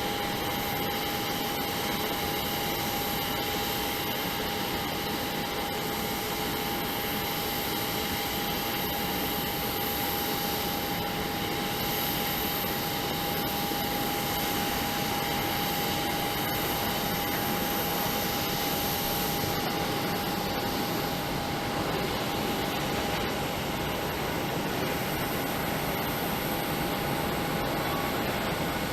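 Jet airliner engines running steadily: an even rushing hiss with a constant whine.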